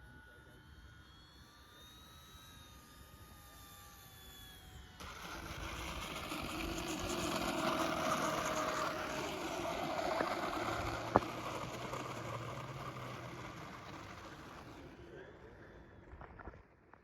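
Electric-powered E-flite T-28 Trojan RC planes flying past. At first a faint motor-and-propeller whine slides down in pitch. About five seconds in, a much louder propeller buzz comes in suddenly, swells and then fades away as the planes pass, with one sharp click partway through.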